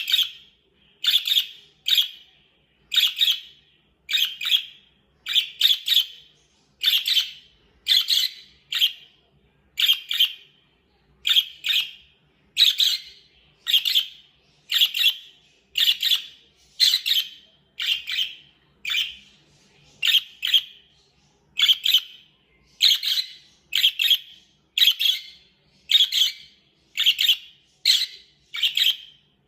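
Young ring-necked parakeet calling over and over: short high chirps roughly once a second, many of them in quick pairs.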